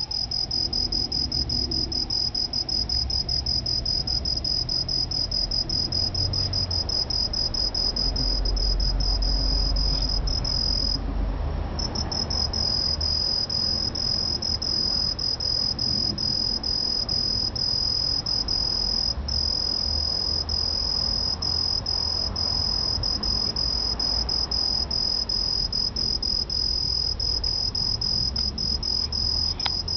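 Aomatsumushi (Truljalia hibinonis) tree cricket singing: a high, rapid string of chirps that at times runs together into an unbroken trill and breaks off briefly once. A low rumble sits underneath.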